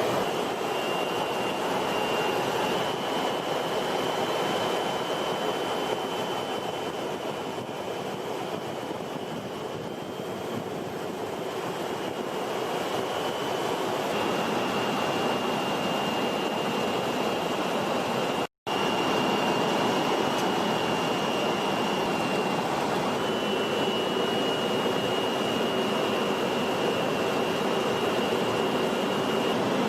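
Jet aircraft engines running: a steady rush with a thin, high, slightly wavering whine. It breaks off for an instant about two-thirds of the way through, at an edit.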